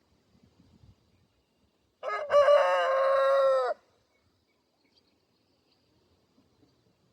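A rooster crowing once: a single call of nearly two seconds starting about two seconds in, held on one note and dropping slightly in pitch as it ends.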